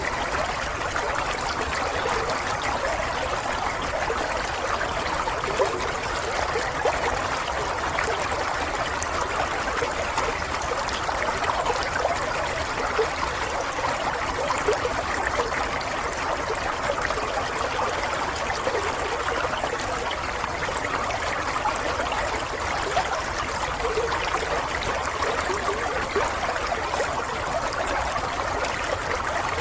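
Running water flowing and trickling steadily.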